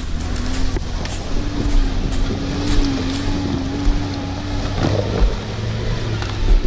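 Off-road 4x4's engine running steadily under load with a slightly wavering drone, with scattered knocks and rattles as the vehicle crawls over rough ground.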